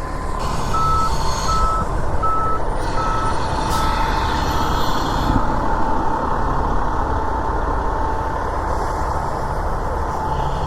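A vehicle's reversing alarm beeping about six times, roughly one beep every three-quarters of a second, fading out after about five seconds. Under it runs a steady low engine rumble.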